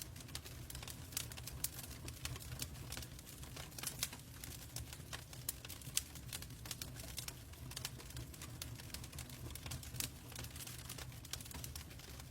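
Log fire crackling in a fireplace: irregular sharp pops and snaps over a steady low rumble of the flames.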